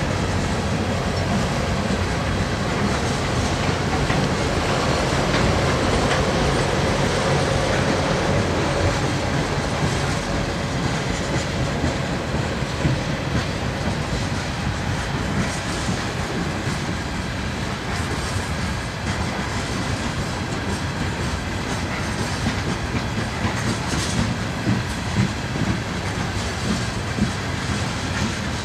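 Freight train of Tropicana refrigerated boxcars rolling steadily past on a low concrete trestle bridge: a continuous rumble of steel wheels on rail with clickety-clack over the rail joints. Sharper wheel clicks come more often in the second half.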